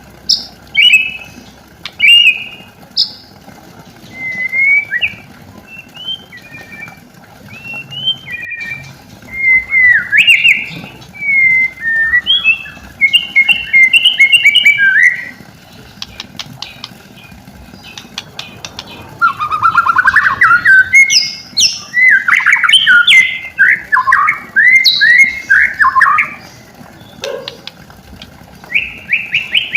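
White-rumped shama (murai batu) singing a long, varied song of clear whistled phrases that glide up and down. In the second half the phrases come thicker and louder, in rapid runs of notes.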